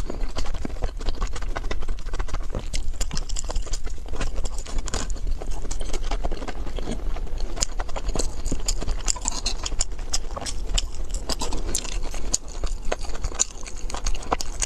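Close-miked eating: chewing and mouth sounds with many short clicks and crackles, continuous throughout, over a steady low hum.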